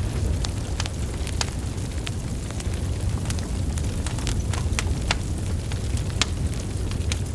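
Burning wood logs crackling: a steady low rumble of flames with irregular sharp crackles and pops, about two a second.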